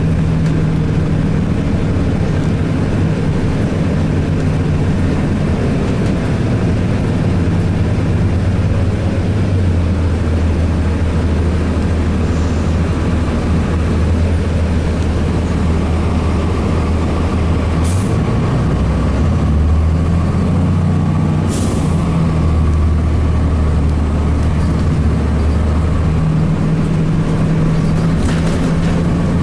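Cummins ISC diesel engine of a 2002 Blue Bird CS transit bus running steadily, its note stepping up and down several times as the throttle and automatic transmission change. Three short air-brake hisses come in the second half.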